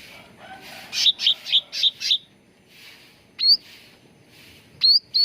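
Cucak ranting songbird calling: soft repeated chirps, then a quick run of five loud chirps about a second in, followed by sharp upward-sweeping whistled notes near the end.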